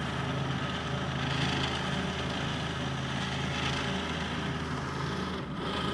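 A motor engine running steadily at a constant low speed, with a brief dip near the end.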